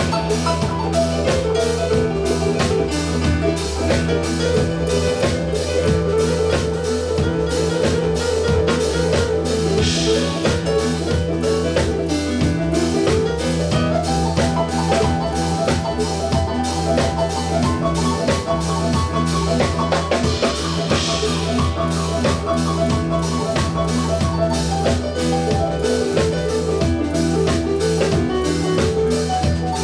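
Live band playing an instrumental passage: drum kit over a steady low bass, with a melodic lead line that slides upward about twelve seconds in.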